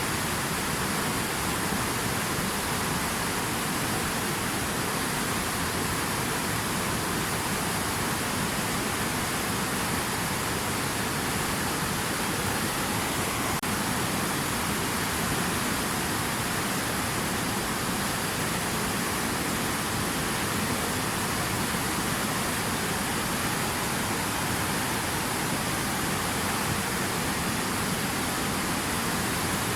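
Steady rushing water: an even, unbroken hiss with no separate splashes or drops.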